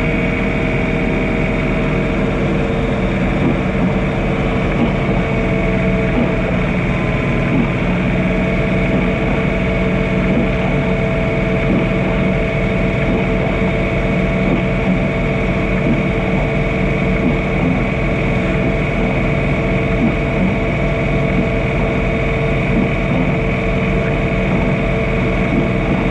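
John Deere 3046R compact tractor's diesel engine running steadily while snow blowing, a constant hum with a few steady whining tones over it.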